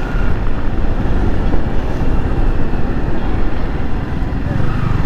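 Wind rushing over the microphone with the Yamaha R15 V3's single-cylinder engine running underneath at highway speed; the engine note comes up more clearly near the end.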